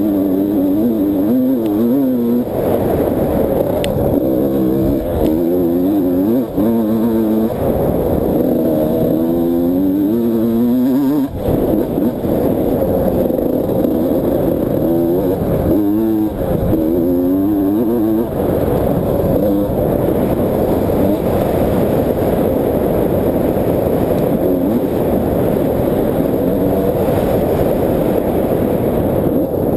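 Motocross dirt bike engine being ridden hard around a track, its pitch repeatedly climbing under throttle and dropping off between gear changes and corners.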